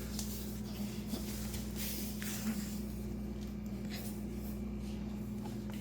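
Steady low electrical hum with a few faint clicks and scrapes of an Allen key and screws being worked loose from a dishwasher's bottom panel.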